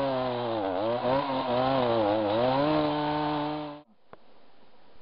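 Two-stroke chainsaw engine running at high speed, its pitch dipping twice as if briefly loaded, then cutting off abruptly near the end.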